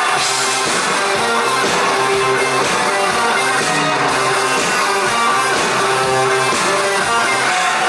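Live rock band playing an instrumental passage, led by guitars, as heard from the audience.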